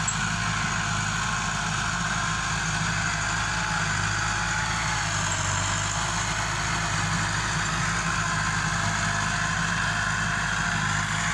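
Massey Ferguson 385 tractor's Perkins diesel engine running steadily at a constant speed.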